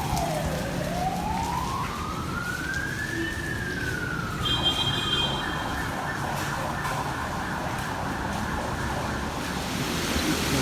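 Emergency vehicle siren wailing, its pitch falling and then slowly rising again, over a steady hiss of rain and street traffic.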